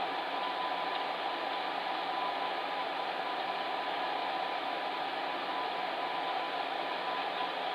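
Fan heater running steadily: an even rush of blown air with a faint steady hum underneath.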